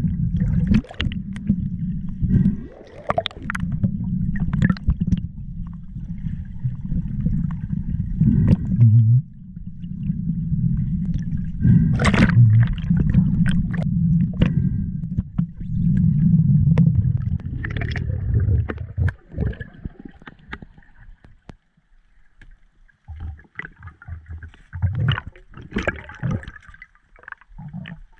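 Water gurgling over a steady low rumble, with scattered clicks and knocks; the rumble stops about two-thirds of the way through, leaving only occasional knocks.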